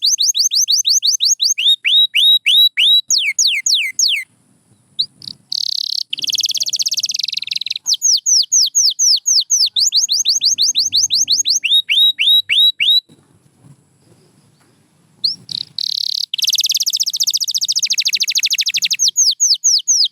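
Canary singing: phrases of quickly repeated falling whistles, several a second, broken by two fast rolling trills, one around the middle and one near the end, with brief pauses between phrases.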